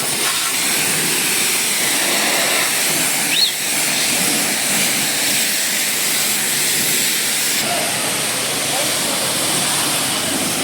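High-pressure washer spraying water in a steady hiss.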